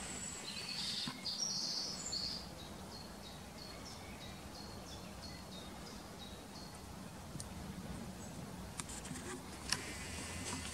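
Wild bird singing: a short high warbling phrase, then a run of evenly spaced short high notes, about two a second, for several seconds. Near the end, a few sharp crackles of rustling undergrowth.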